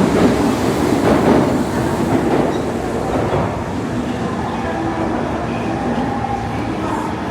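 Train running past the station platform: a loud, steady rush of wheel and running noise that eases off a little after about two seconds.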